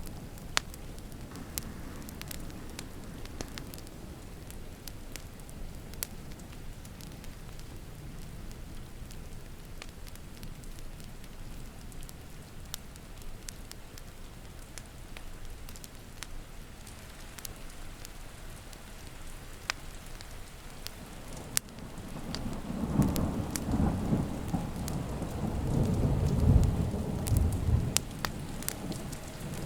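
Wood fire crackling with scattered sharp pops over a steady patter of rain. About 23 seconds in, a long rolling rumble of thunder builds, peaks and dies away near the end.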